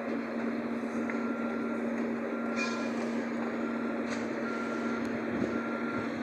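Steady rushing noise under a constant low hum, with a short high beep repeating about once a second.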